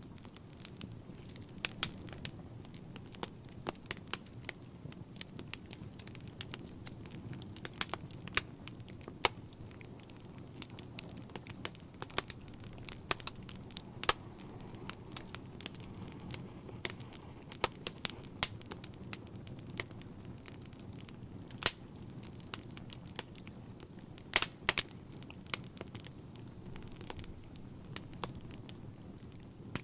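Wood fire burning in a fireplace, with irregular sharp crackles and pops over a steady low rush of flame.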